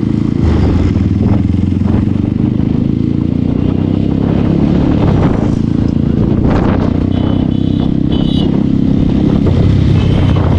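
Bajaj Pulsar 220F's single-cylinder engine idling steadily and loudly through its modified exhaust, with a few light clatters about six seconds in.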